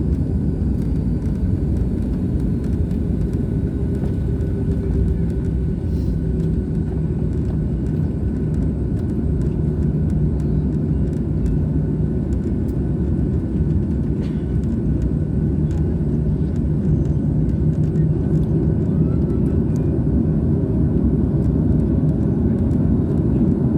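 Steady low rumble of a jet airliner's engines and airflow, heard from inside the passenger cabin, with a faint constant hum over it.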